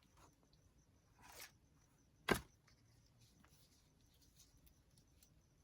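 Quiet paper-crafting handling on a work table: a brief soft rustle about a second in, then a single sharp tap, with a few faint small clicks afterwards.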